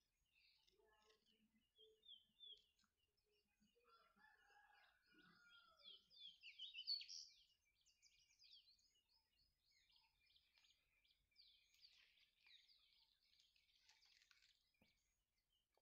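Faint birdsong: small birds chirping and twittering, with runs of quick downward-sweeping notes, the loudest about six to seven seconds in and another run around twelve to fourteen seconds in.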